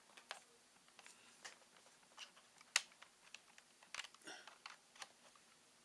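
Scattered light clicks and rustles of cables and plugs being handled and connected to a ThinkPad T61 laptop, with one sharp click a little under three seconds in and a short cluster of clicks about a second later.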